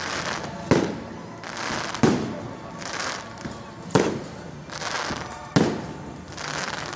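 Fireworks display: four loud shell bursts, about one every one and a half to two seconds, each ringing out, with hissing and crackling between them.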